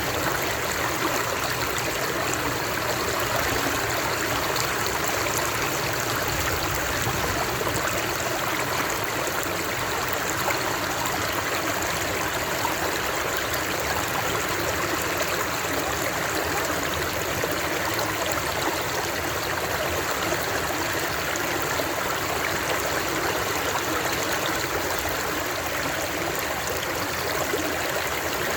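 Flowing water, as of a stream, running steadily with an even rushing and trickling.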